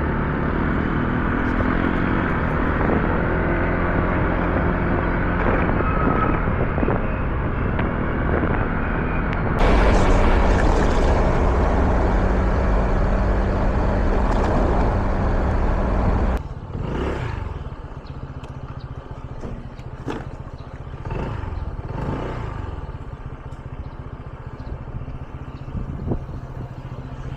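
Scooter engine running under way, with wind and road noise on the microphone; it gets louder about ten seconds in. At about sixteen seconds it drops sharply to a quieter, lower engine sound, with other vehicles passing by.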